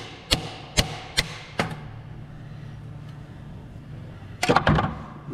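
Hammer blows on steel, four sharp strikes in quick succession, then a quick burst of metal clanks near the end, while working on a seized exhaust nut on a Cummins diesel's exhaust that ends up snapped off.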